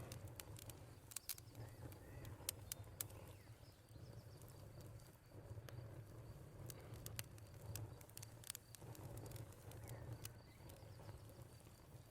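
Faint wood fire crackling in a fireplace: irregular sharp pops and snaps, several a second at times, over a low steady rumble.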